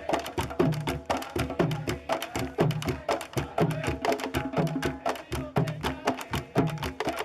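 Candombe drums playing together: dense sharp stick strikes on wood and drumheads over deep drum strokes that recur in a steady rhythm.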